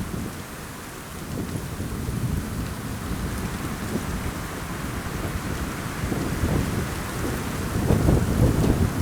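Strong wind gusting over the microphone: a low rumble that rises and falls in waves and is loudest near the end, over a steady rushing hiss of wind.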